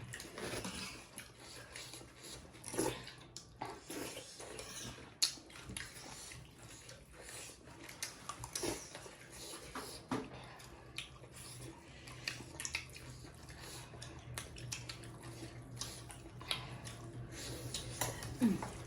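Eating at a plate: scattered light clicks and clinks of dishes and food being handled and eaten, over a faint steady low hum.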